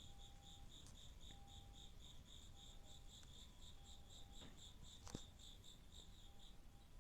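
Faint insect chirping, a steady high pulsing trill at about five pulses a second. A sharp click about five seconds in.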